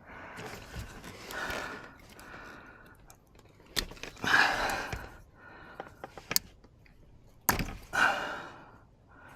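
Hands working at plastic wiring connectors and trim, giving a few sharp clicks and handling rustles, mixed with heavy breaths and exhales from the person doing the work.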